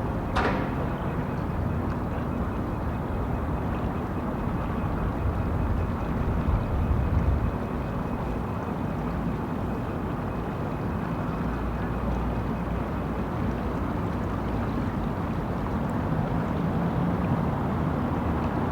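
Outdoor city street ambience: a steady low rumble of traffic and crowd, with a single sharp knock just after the start.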